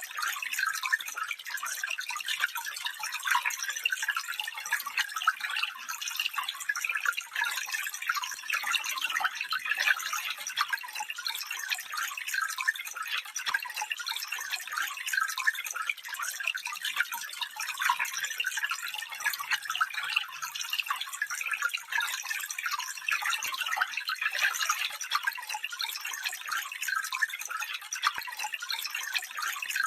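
Small stream of water running and trickling over stones, a steady babble of many small splashes, with no deep rushing sound.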